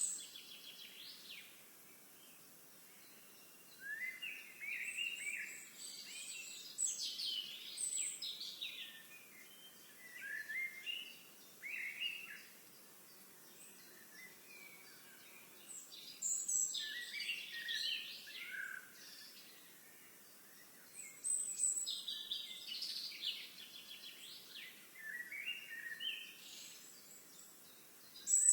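Songbirds singing in bursts of quick, chirping phrases every few seconds, with short quiet gaps of faint outdoor hiss between them.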